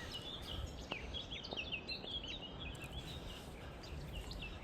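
Small birds chirping in quick runs of short high notes, over a steady low outdoor rumble.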